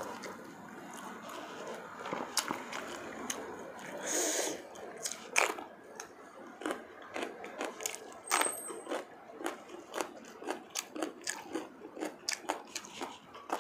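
Close-miked chewing of a bitten green chili pepper: irregular crunches and wet mouth clicks, about two or three a second, with a short breathy hiss about four seconds in.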